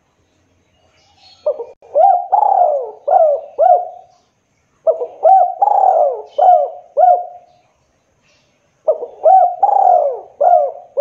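Spotted dove (tekukur) cooing: three repeated phrases of about five notes each, a few seconds apart, starting about a second and a half in.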